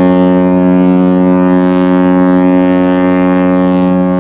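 Cruise ship MSC Preziosa's horn sounding one long, steady blast, loud and unbroken.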